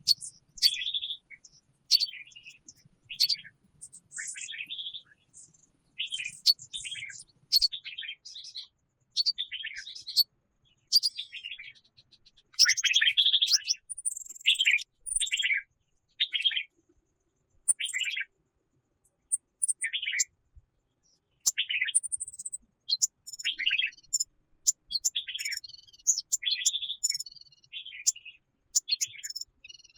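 Songbirds chirping and calling in short, quick phrases with brief silences between, some high and thin, others lower trills.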